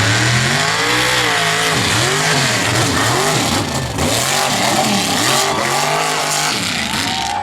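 Mud bog race truck's engine under hard throttle. The revs climb at the start, then surge and drop again and again, about once a second, as the truck charges through the hill-and-hole course.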